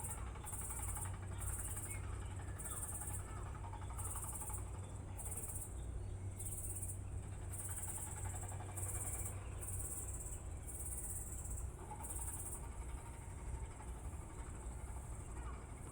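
An insect chirping in regular high-pitched pulses, a little more than one a second, that stop about three-quarters of the way through, over a low steady hum.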